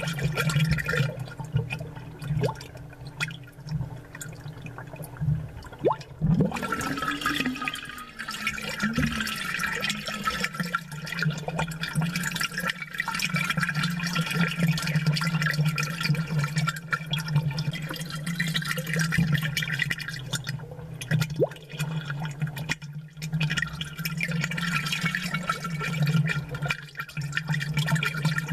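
Aquarium water bubbling and gurgling from an aerator, with a steady low hum underneath and a brief click about six seconds in.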